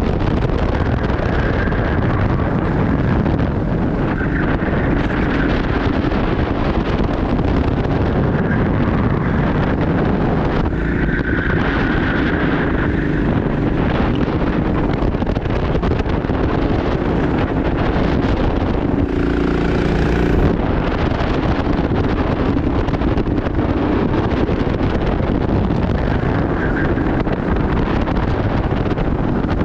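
Go-kart engine running at racing speed, with wind buffeting the onboard microphone. About two-thirds of the way through, a brief pitched engine note stands out for a second or so.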